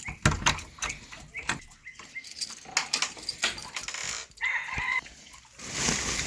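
Rustling and irregular clicks from a chicken-feed bag being handled, with one short chicken call about four and a half seconds in.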